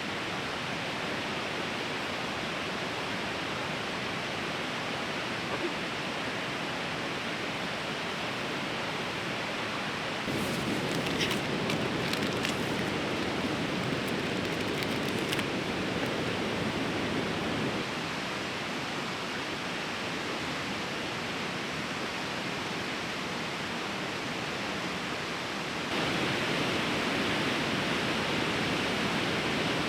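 Fast-flowing river rushing steadily, its level stepping up about ten seconds in, dropping back a little later and rising again near the end. A few faint clicks sound over it about eleven to fifteen seconds in.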